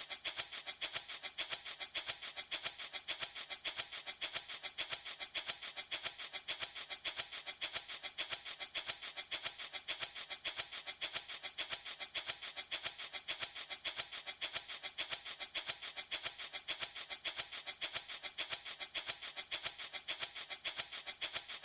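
Handmade wooden baby rattle shaken in a steady, even rhythm, a continuous hiss-like rattling of beads or pellets inside.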